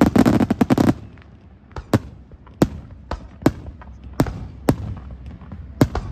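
Fireworks bursting: a rapid cluster of sharp bangs in the first second, then single bangs every half second to a second.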